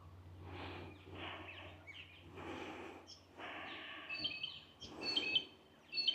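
Outdoor birds calling, a quick run of short, sharp repeated chirps starting about four seconds in, over a steady low hum. Earlier there are a few soft whooshing noise bursts.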